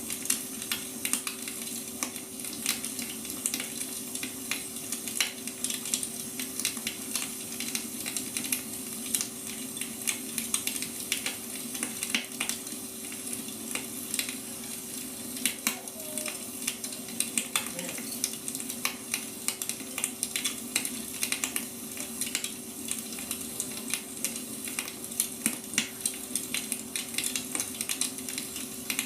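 Wood fire crackling: irregular pops and snaps over a steady hiss, with a faint steady hum underneath.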